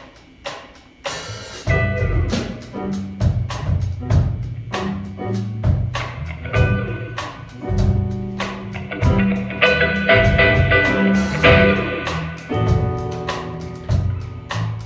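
Live jazz band playing, with the drum kit keeping time: light drum taps at first, then the full band comes in about two seconds in.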